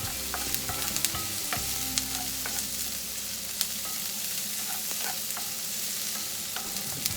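Onion, garlic and ginger sautéing in oil in a pan, sizzling steadily as the onion softens. A utensil clicks against the pan now and then as it is stirred.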